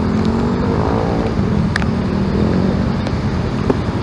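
Road traffic noise with a motor vehicle's engine, its pitch rising and falling about a second in.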